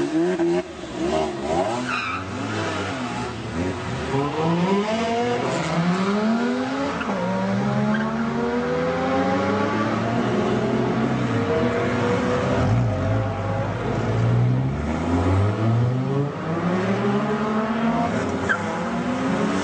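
Supercar engines revving and accelerating, the pitch climbing again and again and falling back between climbs, with more than one engine heard at once.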